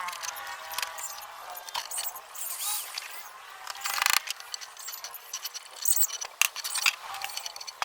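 A series of light clicks and clinks of small hard objects being handled, with a short scraping burst about four seconds in.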